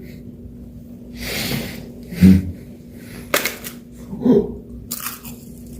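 Beatbox mouth sound effects: a breathy hiss about a second in, then a low pop, a sharp click and a few more short breathy bursts.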